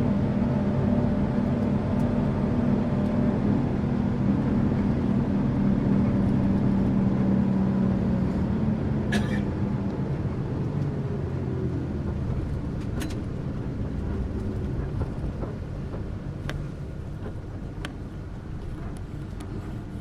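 Tourist bus engine and road noise: a steady low drone that fades and drops away in the second half, with a few sharp clicks.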